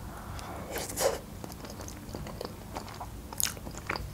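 Close-miked chewing of a mouthful of spaghetti in cream sauce: soft wet mouth clicks and smacks, a louder one about a second in.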